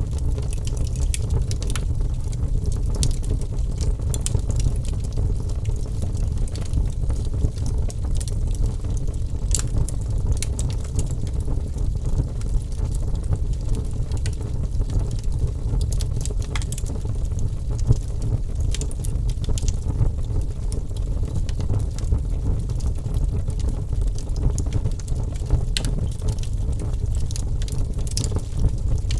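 Wood fire burning: a steady low rumble of flames with scattered sharp crackles and pops at irregular moments.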